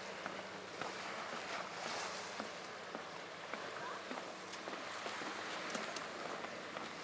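Footsteps along an outdoor walking path, small irregular taps over a steady outdoor hiss, with a faint steady low hum underneath.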